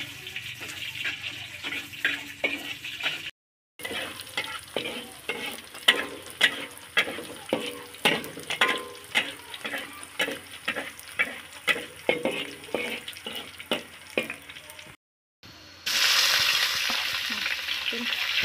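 Chopped spices frying in hot oil in a wok, with a metal spatula scraping and knocking against the wok about twice a second. Near the end, genjer (yellow velvetleaf) greens go into the hot oil and the sizzling becomes loud and steady.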